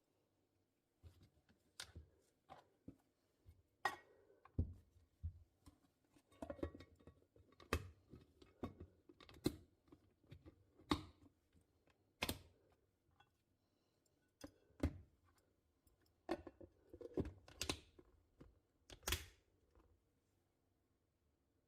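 A string of irregular light clicks and knocks, about one or two a second, like small objects being handled or tapped. They start about a second in and stop shortly before the end.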